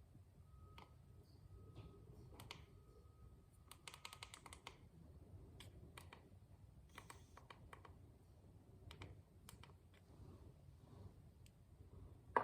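Faint metallic clicking from a ratchet torque wrench tightening the rear axle nut, including a quick run of clicks about four seconds in and scattered single clicks later. A few short, even beeps sound in the first three seconds.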